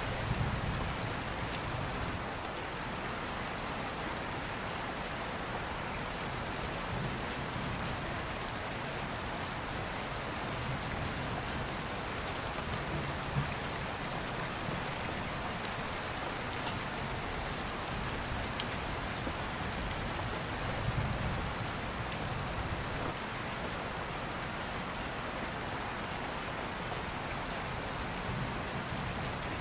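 Steady rain falling, with low rumbles of distant thunder swelling a few times, loudest near the start and about two-thirds of the way in. A few sharp pops stand out above the rain.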